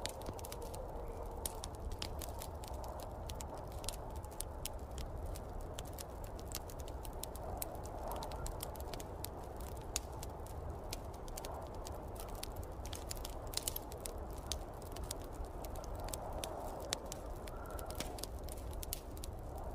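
Wood fire crackling with many small, irregular pops over the steady rush and low rumble of snowstorm wind, which swells now and then.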